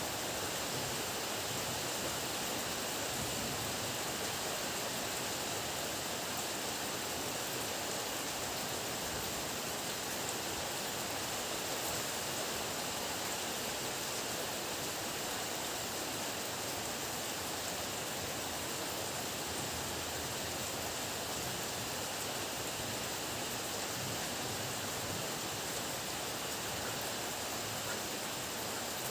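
Heavy rain falling in a steady, even hiss with no distinct drops or thunder standing out.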